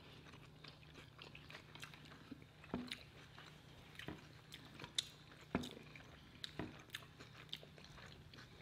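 Close-miked eating sounds: faint biting and chewing of beef, onions and peppers wrapped in flatbread, with scattered small wet clicks and smacks.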